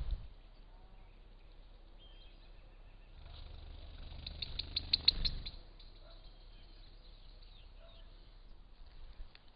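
A bird gives a quick run of about eight high chirps four to five seconds in, over faint outdoor background with a low rumble underneath. A few fainter calls follow.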